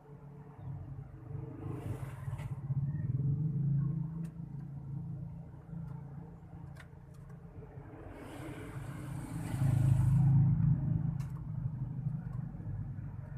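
Low rumble of passing road traffic, swelling twice: once a few seconds in and again, louder, about ten seconds in.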